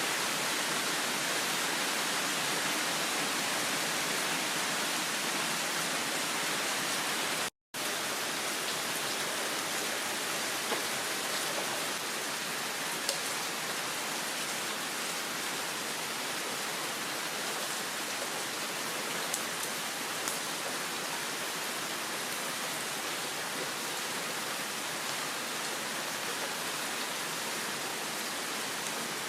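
Heavy rain falling in a steady hiss, with a few faint ticks over it. The sound cuts out for a moment about seven and a half seconds in.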